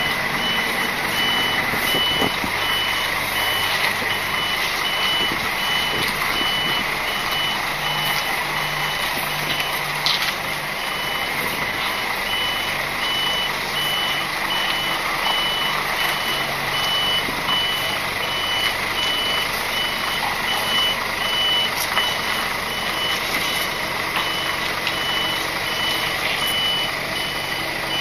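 Articulated lorry's reversing alarm beeping at an even, steady rate over the running diesel engine while the truck backs up.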